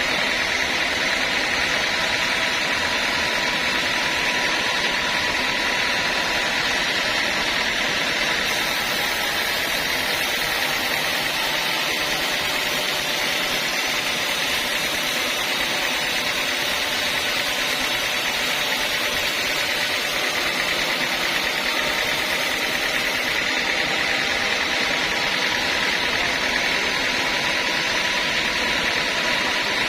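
Sawmill machinery running steadily, a constant mechanical noise with a steady high whine and no pauses.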